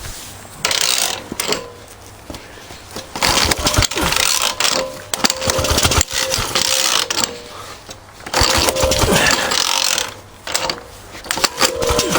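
Small 1926 Jawa motorcycle engine being turned over by hand in about six separate bursts of mechanical clattering and ratcheting, failing to fire.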